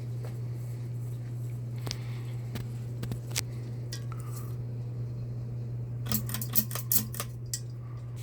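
Bahama 42-inch ceiling fan's motor humming steadily, with a few scattered light clicks and a quick run of clicks and clinks about six to seven and a half seconds in.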